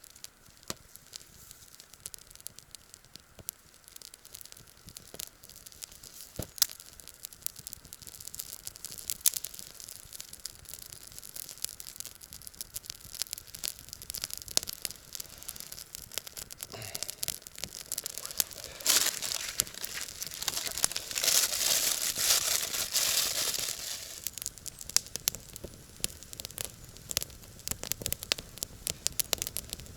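Dry twigs and leaves crackling and rustling, with scattered sharp snaps throughout and a louder, denser stretch of crackling about two-thirds of the way in.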